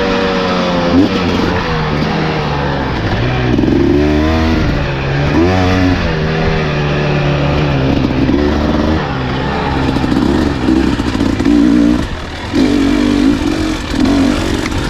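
Enduro dirt bike engine being ridden along a trail, its pitch rising and falling over and over with the throttle.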